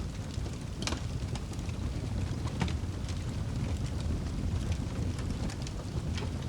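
Wood fire burning with a steady low rumble of the flames and frequent sharp crackles and pops, a few louder pops among them.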